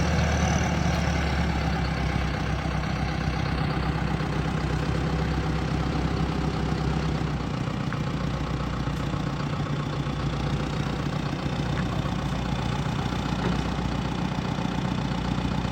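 John Deere 6430 tractor's diesel engine idling steadily.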